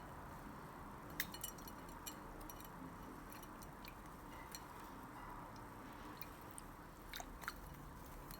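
Budgerigar making faint, irregular small clicks and taps, with two or three very brief high chirps about a second in and near the end.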